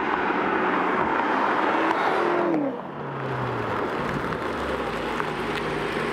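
BMW X5 M Competition's twin-turbo V8 running with tyre and road noise as the SUV drives toward the camera. The engine note falls in pitch about two and a half seconds in as the car slows. After that a lower, steady engine sound continues as it rolls slowly up and stops.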